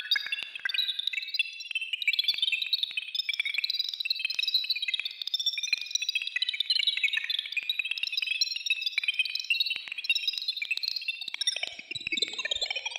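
Esoteric Synth app generating synthetic birdsong: two oscillators with randomised frequency make a dense, rapid stream of short, high electronic chirps at random pitches. Lower, gliding tones join in near the end.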